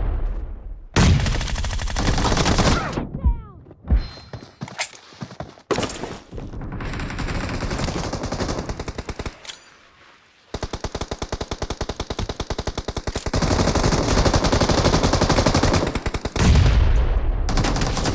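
Video game gunfire: long bursts of rapid automatic rifle fire, several seconds at a time, with heavy booming blasts, one near the end.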